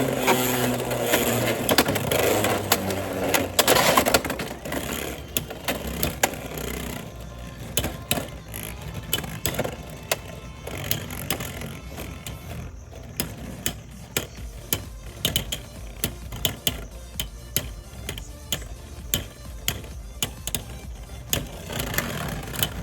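Beyblade X spinning tops battling in a plastic stadium: loud clashing and whirring for the first few seconds, then a long run of sharp plastic clicks and knocks.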